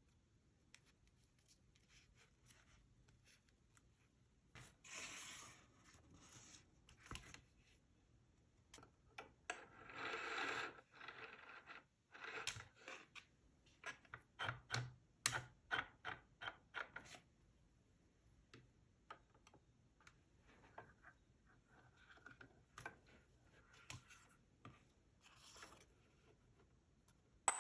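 Faint, intermittent rustling and scraping of paper being handled and worked with craft tools, with a quick run of light taps and clicks in the middle.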